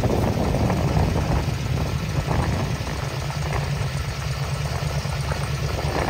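Fuel-injected 283 V8 of a 1960 Corvette idling steadily.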